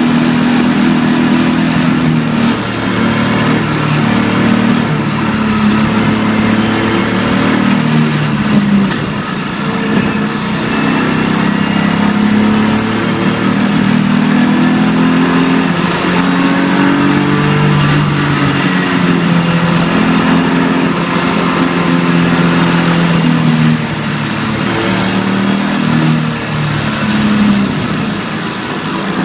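BMW E46 325ti Compact's straight-six engine heard from inside the cabin under hard driving, its pitch climbing and dropping several times as it accelerates, changes gear and lifts off, over steady road and tyre noise.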